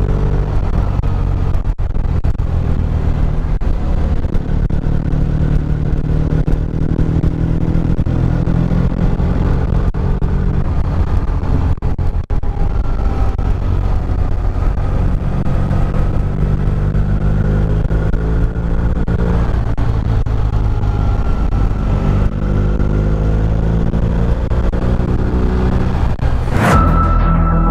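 Motorcycle riding along, its engine running steadily with the pitch wavering slightly. About a second before the end it cuts off abruptly and music begins.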